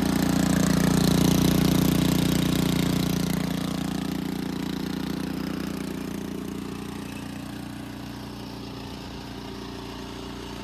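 Ariens Deluxe 24 snowblower engine running steadily on its newly fitted carburetor, louder for the first couple of seconds and then gradually quieter.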